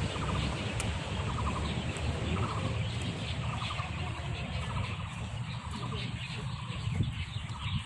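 Birds giving short rattling calls, each a quick run of pulses, repeating about every half second to a second over a low rumble.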